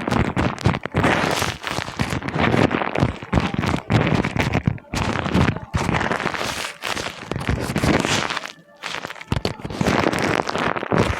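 Paper being crumpled and handled close to the microphone, making a dense, irregular run of crackles. There is a short lull about three-quarters of the way through.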